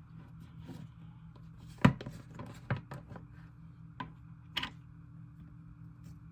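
Hands handling a tub of cloud slime: a few sharp clicks and knocks, the loudest about two seconds in, over a steady low hum.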